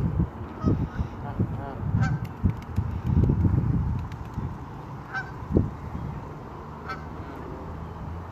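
Geese honking around a lake, short calls scattered through, with irregular low rumbling bursts, loudest about three seconds in.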